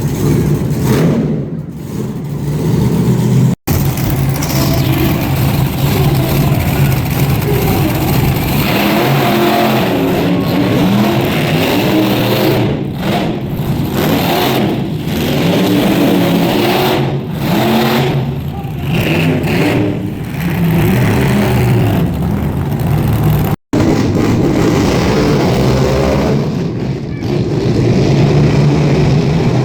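Monster truck engines running loud and revving, the engine pitch rising and falling. The sound drops out for an instant twice.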